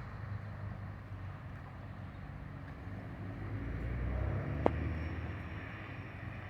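Scania 113H truck's diesel engine rumbling low through a straight-pipe exhaust; the rumble swells a few seconds in, with one sharp click in the middle of the swell.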